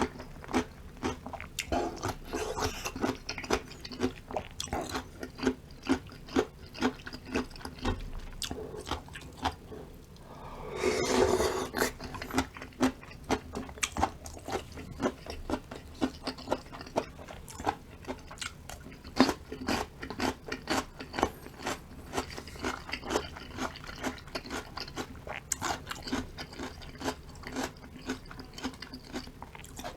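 A person chewing and crunching crisp food, many short sharp crunches in quick succession, with a denser, louder stretch about eleven seconds in.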